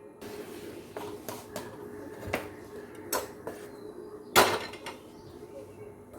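Kitchen utensils knocking and clinking while rotis are being cooked: a handful of separate knocks, the loudest about four seconds in, over a faint steady hum.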